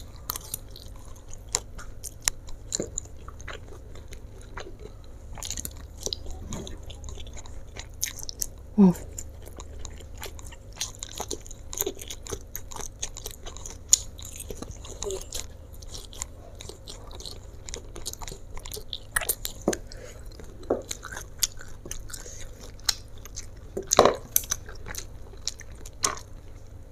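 Chewing of mouthfuls of fried flat rice noodles with shrimp and meatballs, with scattered light clicks of a fork and chopsticks.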